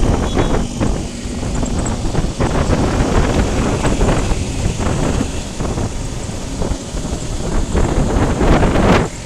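Wind rushing and buffeting on the microphone of a motorcycle moving at speed, with a short drop in level near the end.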